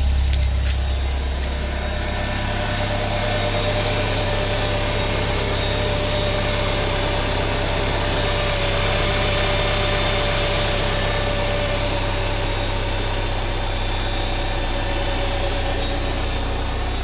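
Mercedes-Benz C180 (W203) naturally aspirated four-cylinder engine idling steadily just after a cold start.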